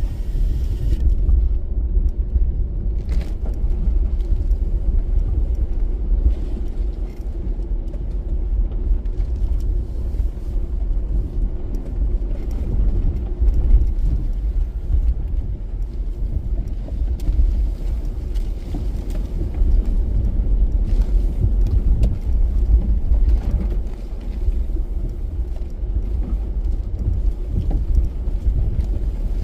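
Toyota Land Cruiser driving off-road: a steady low rumble of engine and running gear, with a few faint knocks.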